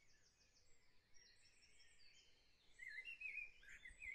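Near silence, with faint bird chirps in the background, most of them about three seconds in.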